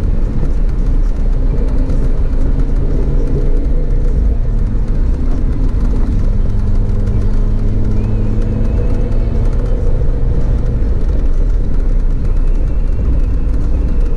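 Audi TT RS's tuned 2.5-litre turbocharged five-cylinder engine running steadily on the move, with a dense low rumble of road and tyre noise, heard from inside the cabin.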